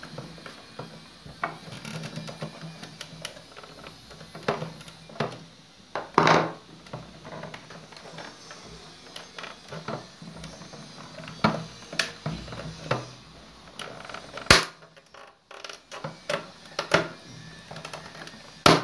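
Clicks, taps and knocks of an espresso machine's plastic casing as its top cover is worked off and handled, with a longer scraping sound about six seconds in and two sharp knocks later on.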